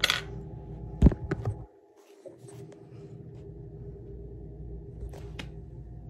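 Steady room hum with a few small clicks and taps, a cluster of them about a second in, and faint single ones later. The hum drops out briefly just before the two-second mark.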